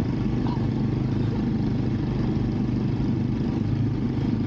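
Motorcycle engine running steadily while riding, under an even rushing hiss of wind and road noise.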